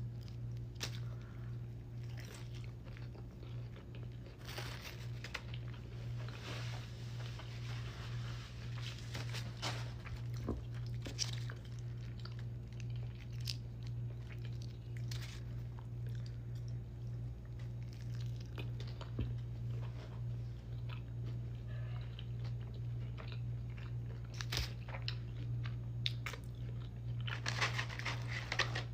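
Close-miked chewing and biting of crunchy food: wet mouth sounds with scattered crunches, denser about a quarter of the way in and near the end, over a steady low hum.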